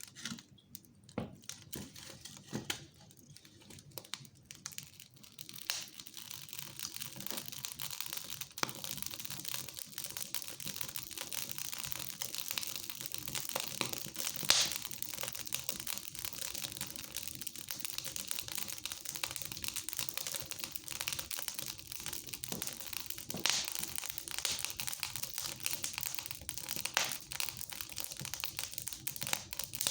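Fire crackling in a fireplace, with sharp pops every so often. The crackle is sparse for the first few seconds, then grows thicker and steadier.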